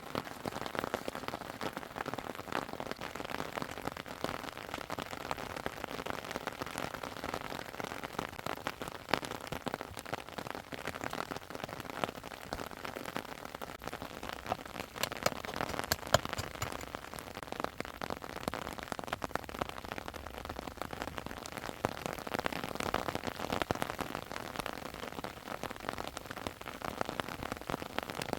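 Steady rain falling, with many separate drops ticking on surfaces close by.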